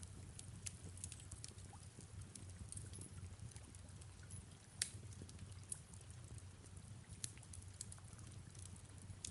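Fireplace crackling softly, with irregular small pops and one sharper crack about five seconds in, over a low steady rumble of soft rain ambience.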